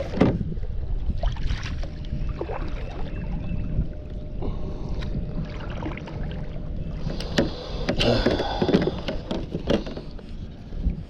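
Kayak moving down a river with the paddle splashing and knocking now and then against the hull, over a steady low rumble. The splashes and knocks come thickest about two thirds of the way through.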